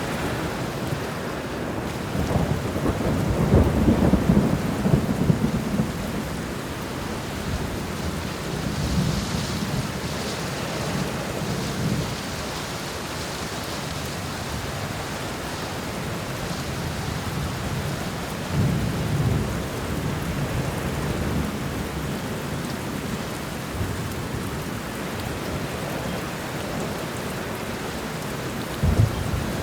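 Steady rain with rolling thunder: a long low rumble a few seconds in, another about two-thirds of the way through, and a third starting near the end.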